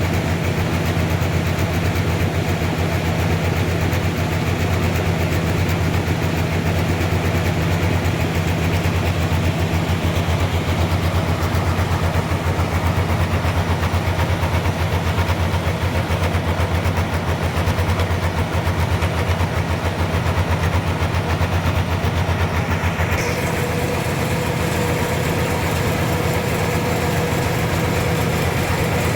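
A sawmill's engine running steadily at a constant pitch, with a faint higher tone joining near the end.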